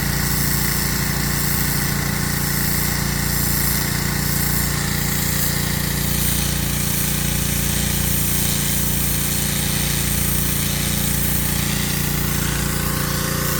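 Pressure washer's small gasoline engine running steadily under load, with a constant hiss over the engine note.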